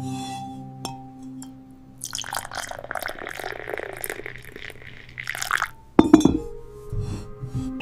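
Water splashing for about three and a half seconds over soft background music, followed by a sharp knock about six seconds in.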